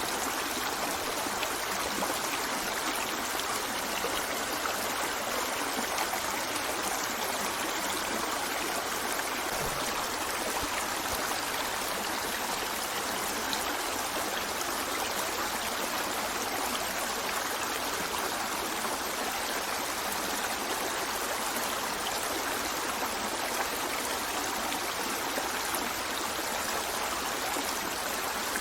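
A stream of running water flowing steadily, a continuous even rush with no change in level.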